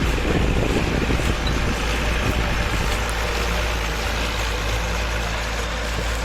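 Diesel farm tractor engine running steadily under load while it pulls a four-disc plough through sugarcane leaves.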